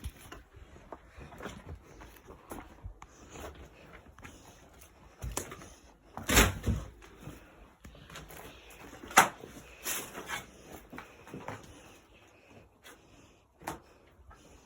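Irregular knocks and bangs, like a door or loose boards being pushed and handled, with the loudest bangs about six and nine seconds in.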